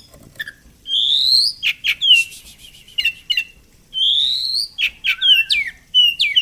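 A songbird singing a varied phrase of rising whistles, sharp down-slurred chips and a short buzzy trill, with the rising whistle repeated about three seconds later.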